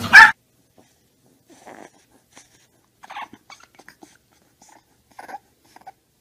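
A short, loud dog bark that cuts off right at the start, then a handful of faint, scattered short noises from a bulldog puppy, a few of them squeaky.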